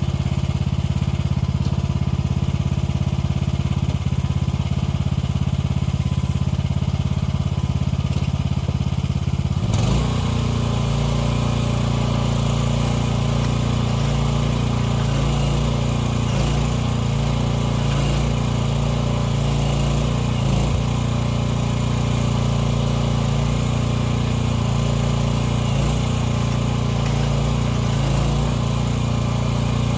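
AGT 1-ton mini excavator's 15-horsepower gasoline engine running steadily. About ten seconds in, the sound changes abruptly and turns fuller and noisier.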